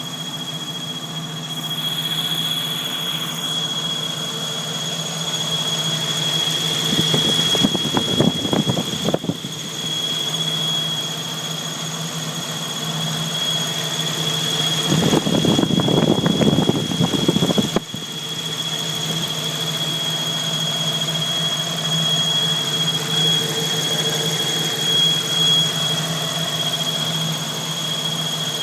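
Jeep Wrangler YJ's 4.0-litre straight-six running, with a steady high-pitched squeal over the idle. The engine gets louder and rougher twice, about a quarter of the way in and again past the middle, while the squeal holds the same pitch.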